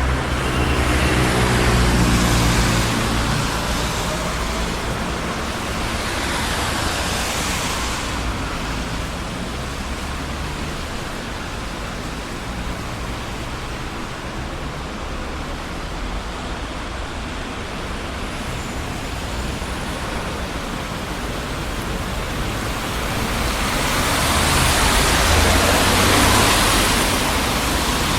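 Busy city street traffic: a continuous roar of tyres and engines, with passing vehicles swelling and fading about two seconds in, around seven seconds, and again near the end. A heavy vehicle's engine rumbles low at the start.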